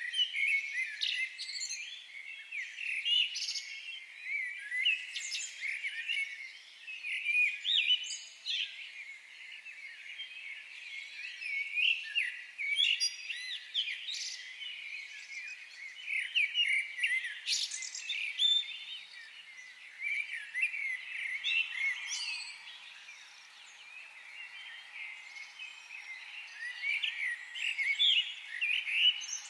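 Many wild birds singing and calling at once: a dense, continuous chorus of quick, overlapping chirps and twitters.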